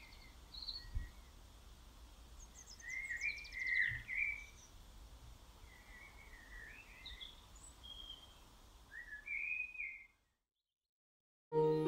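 Small birds singing outdoors: short chirping phrases every second or two over faint outdoor background noise. The sound drops to dead silence about ten seconds in, and soft keyboard music begins near the end.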